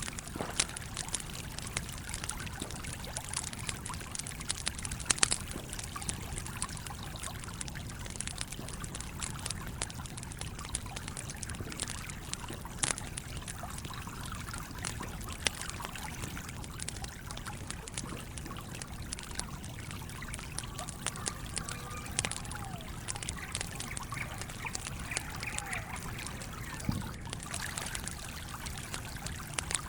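Campfire crackling with scattered sharp pops over the steady rush of a flowing stream.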